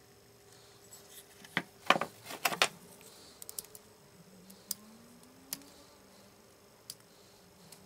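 Small hard objects being handled on a workbench: a cluster of sharp knocks and clatter about two seconds in, then a few scattered light clicks over a faint steady hum.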